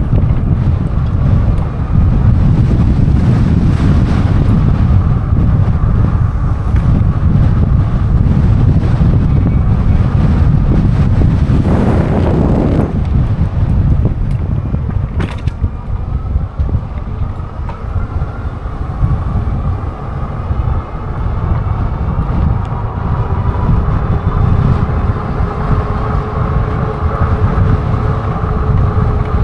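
Heavy wind buffeting on the microphone of a moving e-bike, a steady low rumble, with a louder rushing swell about twelve seconds in and a single sharp click a few seconds later. In the second half a faint whine comes and goes under the wind.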